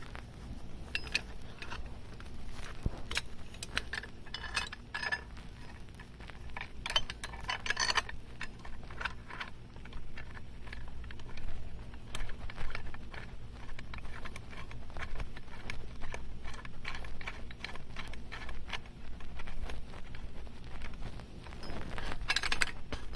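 Intermittent light metallic clinks, clicks and rattles of aluminium chainsaw-mill parts and bolts being handled and tightened together.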